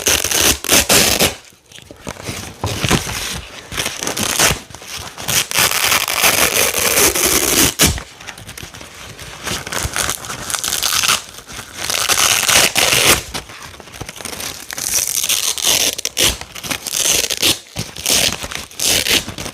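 Velcro hook-and-loop strips being ripped apart over and over, a crunchy, crackling tearing in long strokes with short pauses between them.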